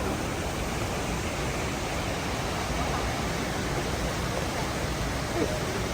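Waterfall rushing, a steady even wash of water noise.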